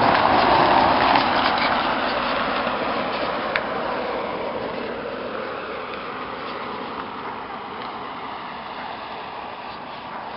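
1956 Ford Thunderbird driving, its engine and road noise loudest at first, then fading gradually with a slowly falling pitch. A single sharp click about three and a half seconds in.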